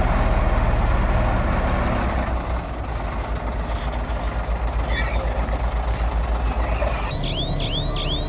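A heavy diesel engine of earthmoving machinery runs steadily under a loud low drone. Near the end a high sweeping chirp starts repeating, about three to four times a second, like a machine's reversing alarm.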